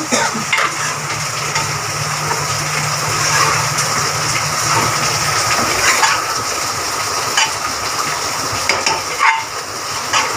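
Minced mutton frying in masala in an open pressure cooker on a gas stove, sizzling steadily, while a metal spoon scrapes and knocks against the pot as it is stirred.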